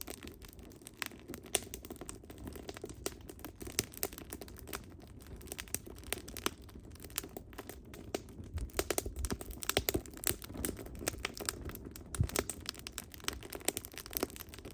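Burning firewood crackling, with many quick irregular pops and snaps over a low steady hiss of the flames.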